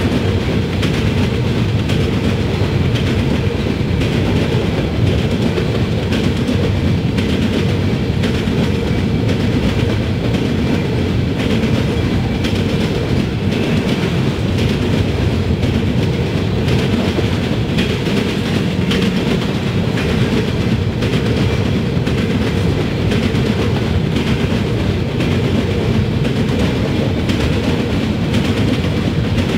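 Freight train of covered hopper cars rolling steadily past close by: a continuous rumble of steel wheels on rail with repeated clacking as the wheels pass over joints.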